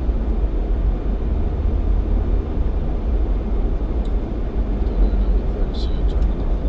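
Jeep Cherokee XJ driving on a snowy highway: a steady low rumble of engine and road noise, with a few short faint clicks near the end.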